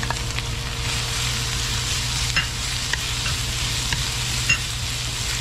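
Sliced onion, garlic and ginger strips sizzling in hot oil in a stainless steel wok while being stirred with a wooden spatula, with a few light clicks of the spatula against the pan. A steady low hum runs underneath.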